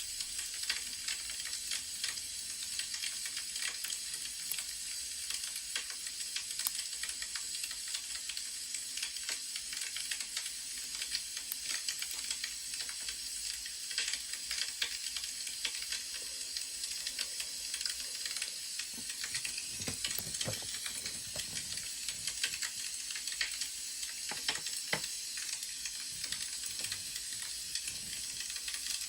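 Wood fire crackling: a steady hiss with many small, irregular pops. A brief soft, lower rustle comes about two-thirds of the way through.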